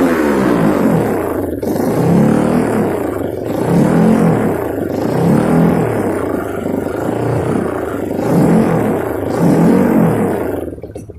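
Kawasaki KLX trail bike's single-cylinder engine through an Over Racing aftermarket exhaust, revved again and again, its pitch rising and falling about every second and a half. The sound drops away sharply near the end.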